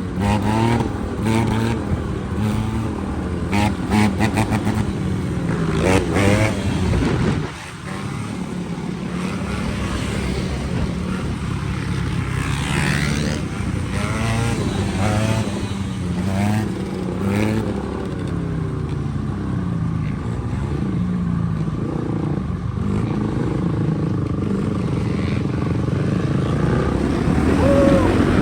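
Dirt bike engine running under riding, its pitch repeatedly rising and falling as the throttle is opened and closed, with a brief dip in level about seven seconds in.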